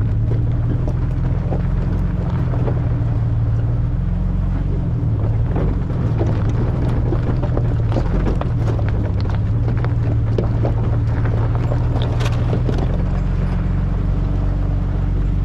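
A car engine running steadily while driving, its pitch drifting up and down, with many short knocks and rattles from travel over a rough dirt track.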